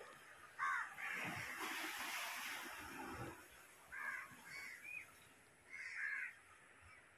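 Bird calls: several short calls, a pair about a second in and a cluster around four to six seconds in, over a stretch of noisy hiss in the first few seconds.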